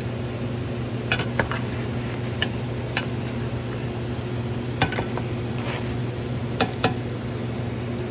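Chicken pieces sizzling in a pot with sautéed ginger, onions and garlic while being stirred, the utensil clinking against the pot about eight times, over a steady low hum.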